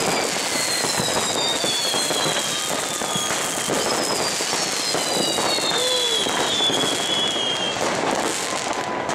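New Year's Eve fireworks: a dense, continuous crackling and popping of rockets and firecrackers going off all around. Over it run long whistles falling in pitch, one from the start and another from about four seconds in.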